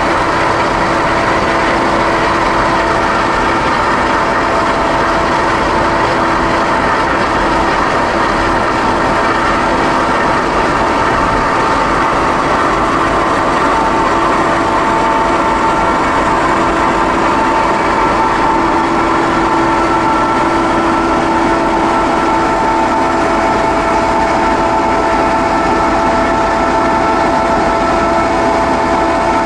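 Freight train rolling past, a loud steady rumble of the cars on the rails with several steady ringing tones over it.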